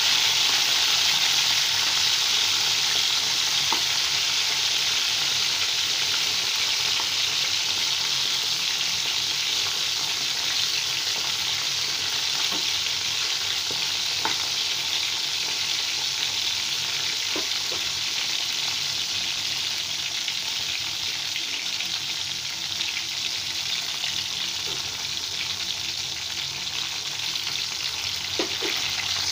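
Small slit brinjals (eggplants) frying in hot oil in a pan: a steady sizzling hiss that eases slightly over time, with a few faint clicks.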